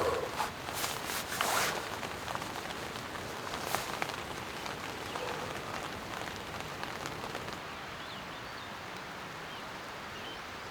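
Steady rain falling, with a few brief sharp sounds over the first two seconds and one more about four seconds in.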